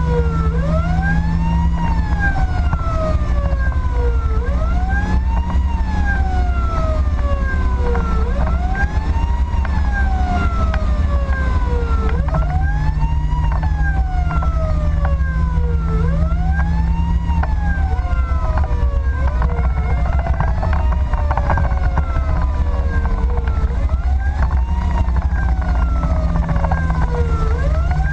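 Fire engine's electronic siren on wail: each cycle rises quickly and then falls slowly, repeating about every four seconds. Under it runs a steady low rumble of the truck's engine and road noise.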